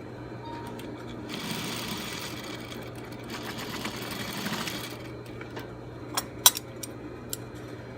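Domestic sewing machine running a top stitch along a bra seam for about four seconds, then stopping. A few sharp clicks follow near the end.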